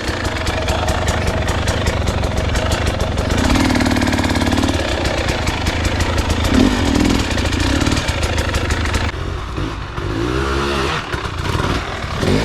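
Dirt bike engine running, with rapid clicking and clatter through the first half.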